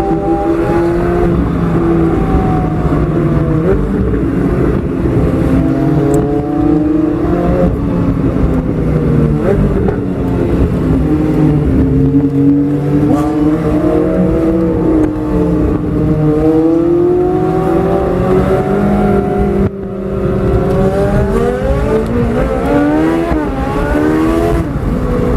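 Straight-piped Ferrari 458 Italia's V8 exhaust under hard driving, its note rising and falling repeatedly with throttle and gear changes. The sound drops briefly about twenty seconds in, then the revs climb quickly several times near the end.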